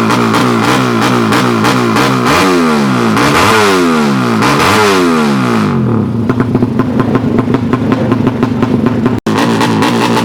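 Tuned open-class 200cc underbone (bebek) drag-race motorcycles with open exhausts, engines revving hard. The pitch swoops up and down again and again, with more than one engine overlapping in the middle. After about six seconds it settles into a rapid, steady, crackling beat, cut off for an instant near the end.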